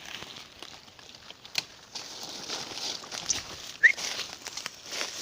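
Footsteps crunching and crackling through leaf litter and brush, with one short rising whistled chirp a little under four seconds in.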